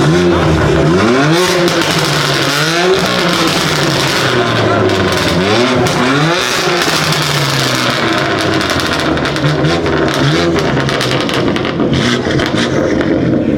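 Car engine revved several times, its pitch climbing and dropping with each rev.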